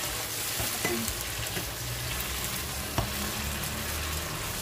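Canned tuna frying in olive oil in a pan: a steady sizzle, with a utensil clicking against the pan twice as it is stirred, about a second in and about three seconds in.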